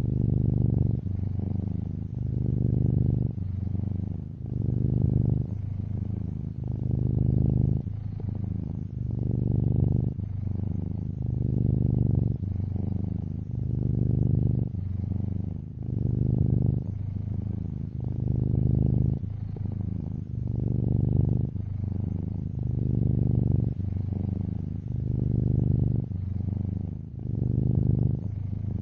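Domestic cat purring steadily, the low rumble swelling and easing with each breath about every two seconds.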